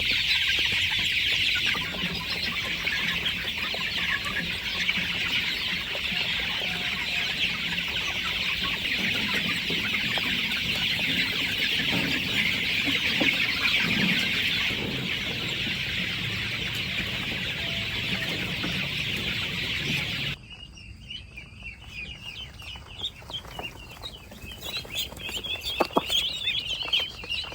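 A flock of chickens clucking and calling in a dense, busy chorus. About twenty seconds in it drops off abruptly to quieter, scattered calls.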